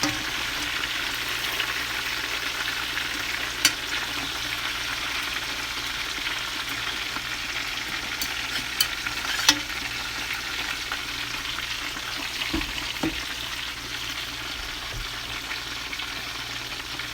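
Breaded chicken thighs sizzling steadily as they fry in hot oil in a pan. A few sharp clicks stand out over the sizzle, one at about 4 seconds in and several around 8 to 10 seconds in.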